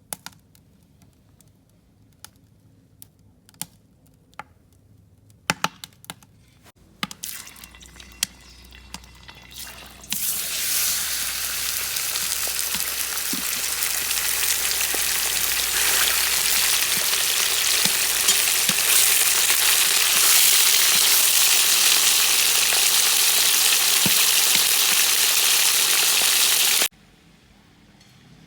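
A few scattered clicks, then about ten seconds in a sudden, loud, steady sizzle as pieces of pork go into hot oil in a kazan. The sizzle cuts off suddenly near the end.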